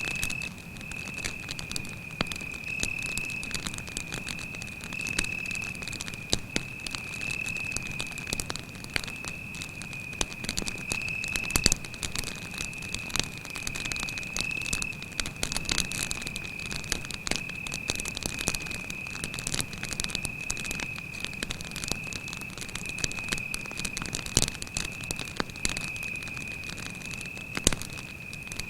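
Wood campfire crackling with frequent small pops and a couple of louder snaps, about twelve and twenty-four seconds in, over a cricket's steady high trill.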